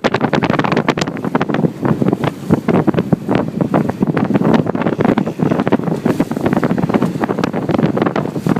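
Heavy wind buffeting the microphone of a motorboat under way, with the Johnson outboard running underneath.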